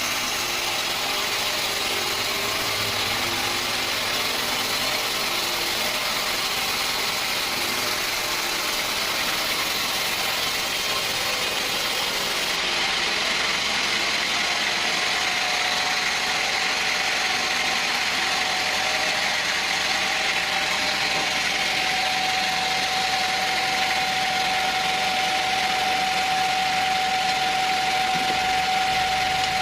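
Sawmill machinery running steadily. Partway through the sound changes abruptly, and a steady whine comes in and holds.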